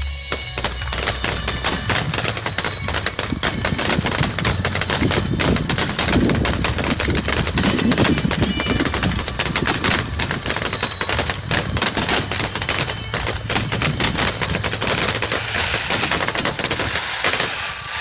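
Fireworks finale: many aerial shells bursting in rapid, overlapping succession, a dense unbroken crackle of bangs. It is heaviest about halfway through and thins out near the end.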